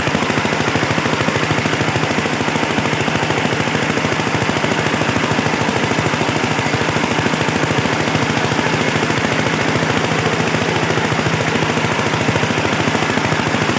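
Hand tractor engine running steadily, a fast, even chugging of exhaust pulses.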